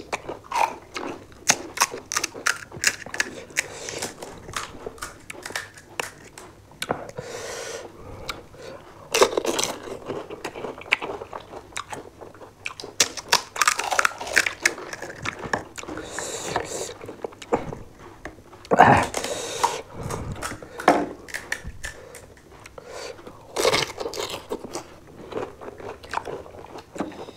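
Close-up crunching and chewing of pani puri: the crisp fried hollow shells cracking as whole puris are bitten, in dense sharp clicks, with a few longer noisy sounds of about a second scattered through.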